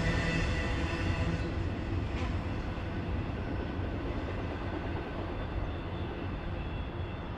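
Freight train cars rolling past on the rails, a steady rumble that slowly fades.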